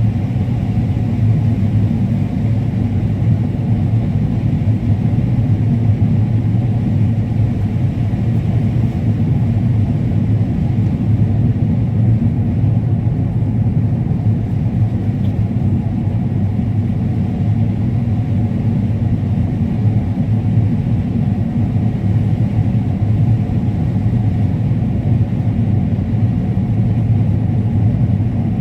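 Combine harvester running steadily while cutting corn: an even, low drone with no changes.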